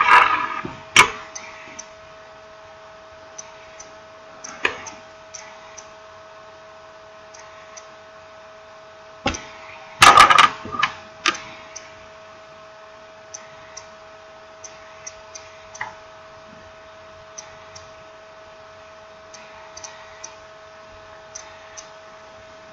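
Small clicks and taps of phone parts and tools being handled during a smartphone reassembly, with a cluster of louder knocks about ten seconds in. A faint steady hum runs underneath.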